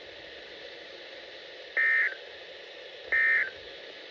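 Two short bursts of NOAA Weather Radio SAME digital data, a warbling two-tone screech about a third of a second each and about 1.3 s apart, over a steady radio hiss. These are the end-of-message bursts that close the warning broadcast.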